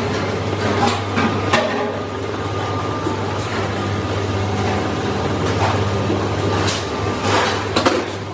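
Steady low machine hum of factory equipment, with a few scattered metallic knocks and clanks, most of them in the second half.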